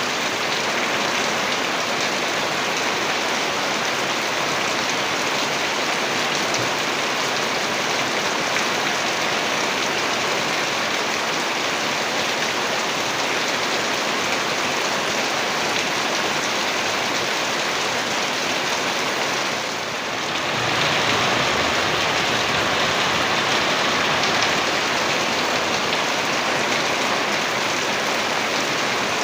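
Heavy rain falling steadily in a dense, even downpour. About two-thirds of the way through it briefly dips, then comes back slightly louder.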